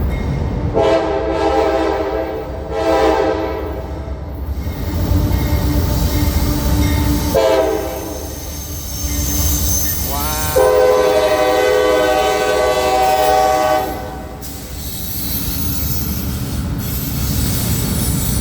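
Freight locomotive's air horn sounding at a grade crossing: a long blast, a short one and another long blast, over the steady low rumble of the train rolling past.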